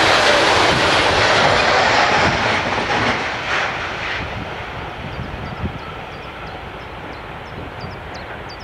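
Freight train of bogie hopper wagons passing on an electrified line: the rumble and rail noise of the wagons fade away over the first few seconds as the end of the train goes by. A low, fading rail rumble is left after that.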